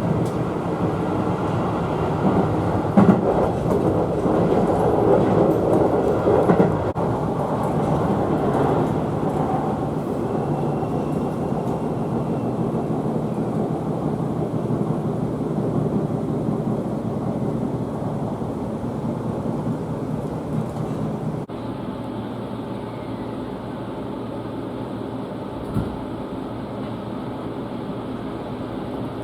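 Seibu 6000 series electric train running along the track, wheels clattering over rail joints with a few sharper knocks. About two-thirds of the way through, the sound abruptly becomes quieter and duller.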